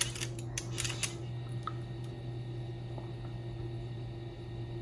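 A few small, sharp mechanical clicks in the first second from a cassette walkman's controls and mechanism as it is switched over to play the other tape side, then a steady low hum.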